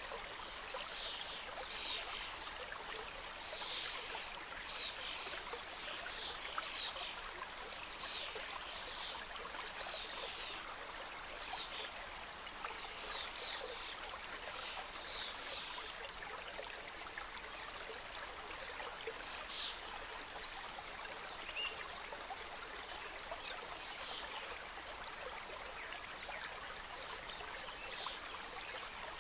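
Forest mountain stream cascading over rocks: a steady rush of water with many small splashes and gurgles on top, fewer in the second half.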